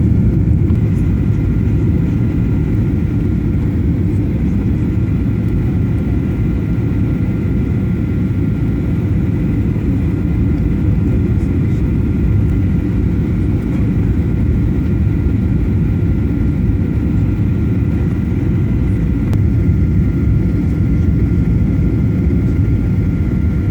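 Steady cabin noise inside a jet airliner: a loud, even low rumble of engines and airflow, with two faint steady whining tones above it.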